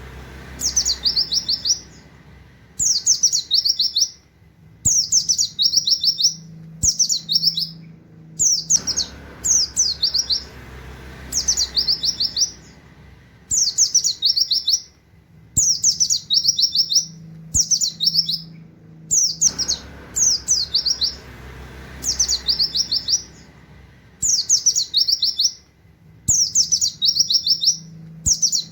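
A pleci (white-eye) singing in rapid 'nembak' bursts: each burst a quick string of high, falling 'wit wit' notes, repeated over and over with short pauses between.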